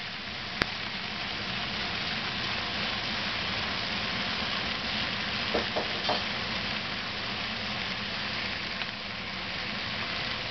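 Eggplant and other chopped vegetables sizzling steadily as they stir-fry in a pan, with wooden spatulas knocking against the pan a few times around the middle. A single sharp click comes about half a second in.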